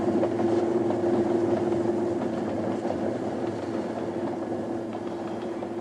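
Passenger train cars rolling along the track: a steady running rumble with a steady hum under it, easing slightly toward the end.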